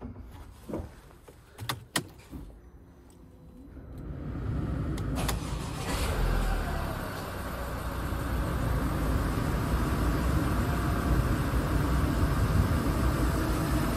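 A few sharp clicks, then a 2016 Mercedes-Benz B180d (W246) four-cylinder diesel engine starts about four seconds in and settles to a steady idle. This is the first start after an oil and filter change.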